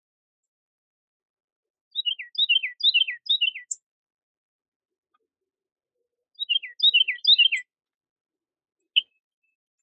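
A songbird singing two short phrases of quick, clear whistled notes, each note sliding downward, with a single brief note near the end.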